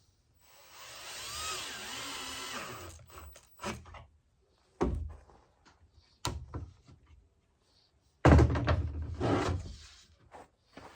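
Drill driving a 1.25-inch pocket-hole screw into softwood: the motor runs for about two and a half seconds with a whine that rises and falls. Then come three sharp knocks, and about eight seconds in a louder sudden burst that fades away.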